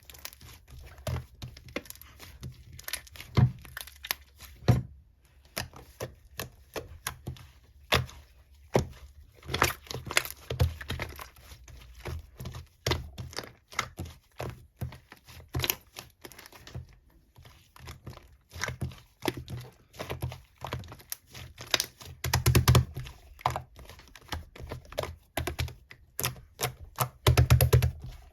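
Slime being pressed, poked and stretched by hand, giving a fast, irregular run of small sticky clicks and crackles, with louder, deeper presses twice toward the end.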